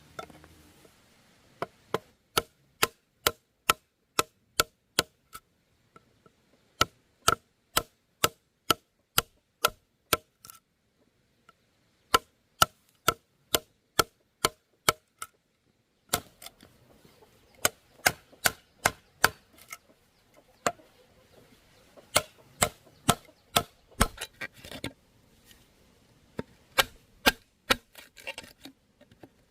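Bamboo being chopped with a blade in a steady run of sharp strikes, about two a second, each blow ringing briefly off the hollow bamboo. The chopping stops a few times and starts again.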